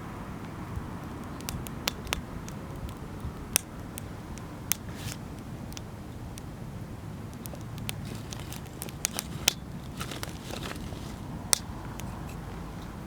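Wood fire crackling, with irregular sharp pops, a few of them louder, over a steady low rumble.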